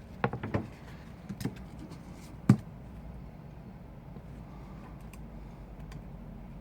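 Small tools and phone parts being handled on a work surface: a quick run of light taps, two more, then one sharper knock.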